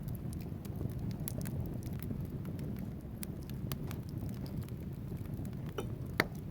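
Wood fire burning in a fireplace: a steady low rumble of flames with scattered small crackles from the burning logs, and one louder pop near the end.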